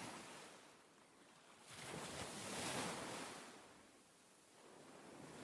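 Recorded ocean waves washing in: a soft hiss of surf that swells to a peak about two and a half seconds in, dies away, and begins to build again near the end.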